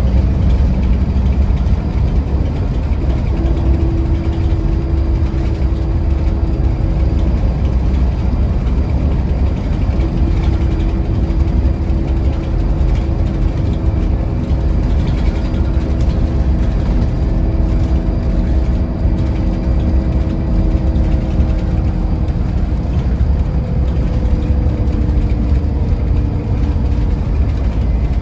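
Scania Irizar i4 coach running on the road: a steady low engine and road rumble, with a faint pitched whine that fades in and out.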